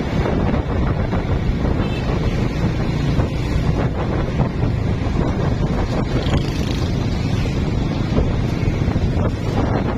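Wind buffeting the microphone over the steady running of a carburetted Honda Blade single-cylinder motorcycle on the move.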